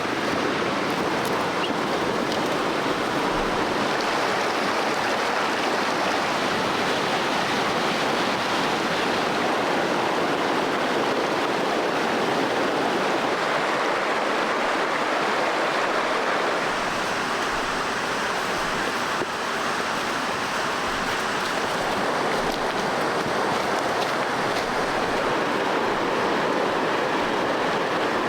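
Stream water flowing and rushing steadily over rocks, an unbroken noise with no distinct splashes.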